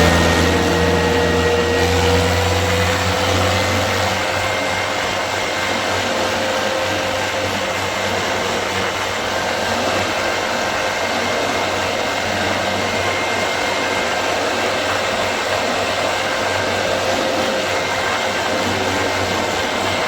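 Tractor running steadily while being driven, a constant rushing noise with a faint whine that rises slightly in pitch over the first few seconds.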